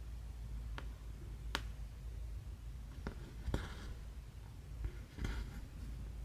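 Cross-stitch needle and thread worked through 11-count stitching fabric: about five sharp clicks and taps as the needle pokes through, two of them followed by a short rasp of thread being pulled, over a low steady room hum.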